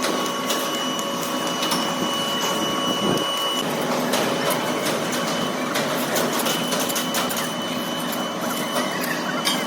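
Heavy workshop machinery running: a steady mechanical hum with a few thin whining tones and many scattered clicks and knocks. One whine stops about a third of the way in and returns later.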